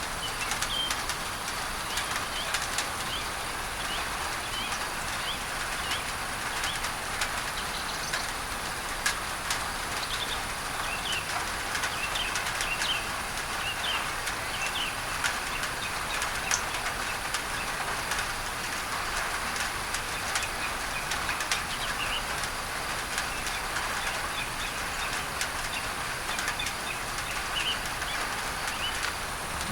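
Steady rain on a tin roof, full of sharp drop ticks, under an even hiss of added masking noise. Birds chirp throughout, most busily from about 8 to 16 seconds in.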